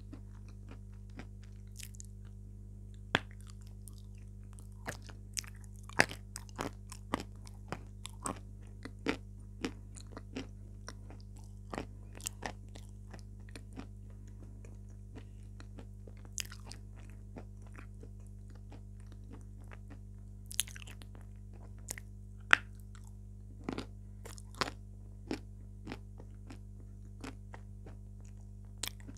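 Close-miked biting and chewing of edible chalk pieces coated in red clay: sharp, dry crunches at irregular intervals, a few much louder than the rest, over a steady low electrical hum.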